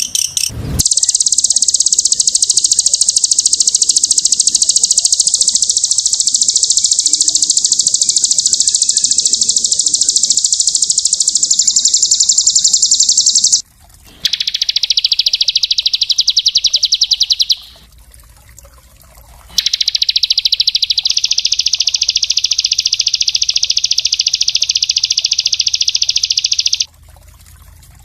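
Small songbird delivering very rapid, dense high-pitched trills: one long unbroken run of about thirteen seconds, then two shorter runs after brief pauses.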